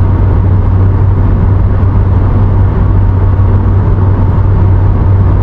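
Steady road and engine noise inside a moving car's cabin: a constant low hum over an even rumble.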